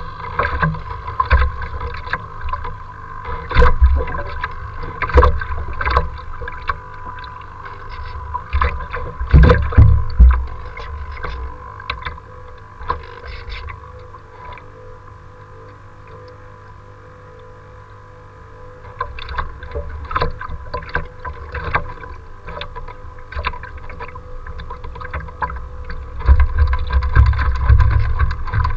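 Strong wind gusting over the microphone in rumbling surges, with short splashes and knocks of choppy waves against the boat. It eases off for a few seconds mid-way and gusts hard again near the end, over a steady faint high hum.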